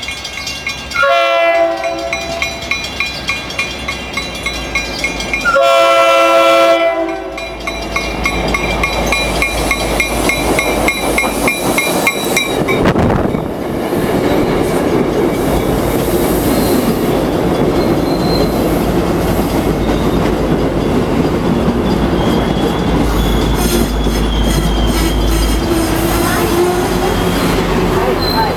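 MBTA commuter rail train sounding its horn twice, a short blast about a second in and a longer one at about six seconds, then rumbling and clattering past along the platform as it pulls into the station.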